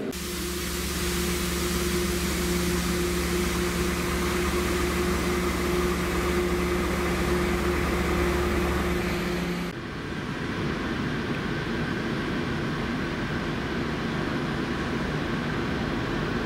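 Steady drone of trains standing at a station platform, with a constant low hum. It cuts off about ten seconds in and gives way to the diesel engine of a TEM18V shunting locomotive running as it approaches.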